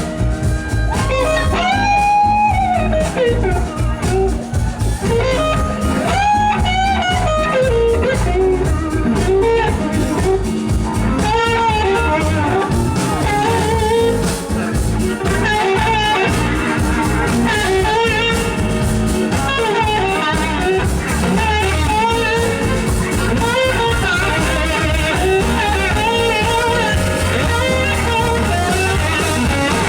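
Blues-rock band playing live, with electric guitar to the fore over bass and drums.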